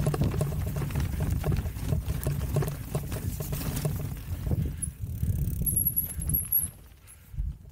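Haibike electric mountain bike rolling over a forest trail: a rough rumble with rattling clicks that dies down about five seconds in as the bike slows. A brief high squeak comes near the end.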